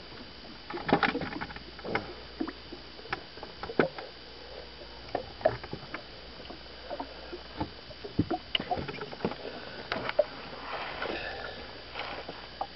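Irregular knocks, clicks and rattles of a landed fish being unhooked and handled in a fishing boat, with bumps against the boat.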